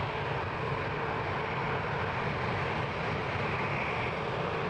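Jet aircraft engines running at an airport, a steady, even noise.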